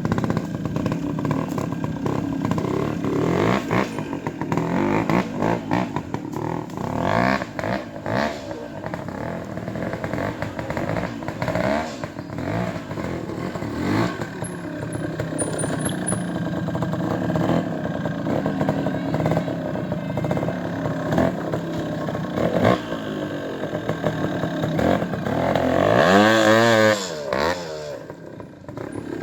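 Trials motorcycle engine blipped and revved in short bursts as the bike works through an obstacle section, with scattered clattering knocks. Near the end there is one loud rev that rises and falls.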